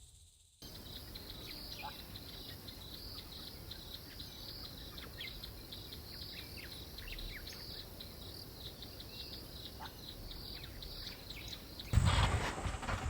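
Bush ambience of insects chirping in a steady, rapidly pulsing high-pitched chorus, with scattered short bird chirps. A much louder sound cuts in near the end.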